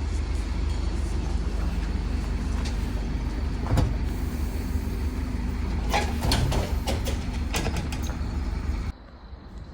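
Scania N230UD OmniCity double-decker bus with its diesel engine running in a steady low drone, a few sharp clicks and rattles over it. The sound drops away suddenly near the end.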